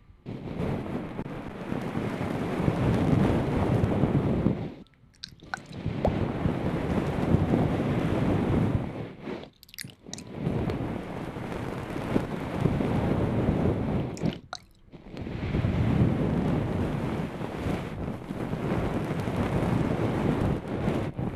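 Long, slow breaths blown onto a binaural ASMR microphone to cool the ears, each blow lasting about four seconds, with short pauses between them.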